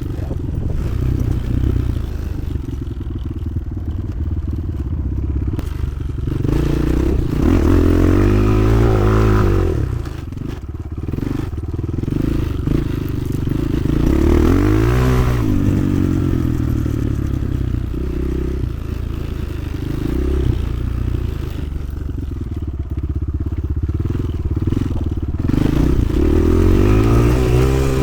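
Motoland XR 300 Lite enduro motorcycle engine running under way, the revs rising and falling several times as the throttle is opened and closed, with clattering from the bike over rough ground.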